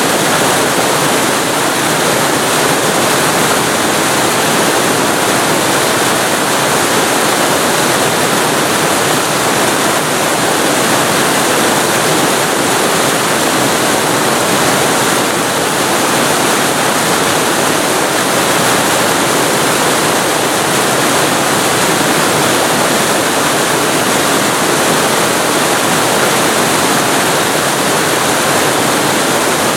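Waterfall recorded very close to the falling water: a loud, steady, dense rush of water with no breaks or changes.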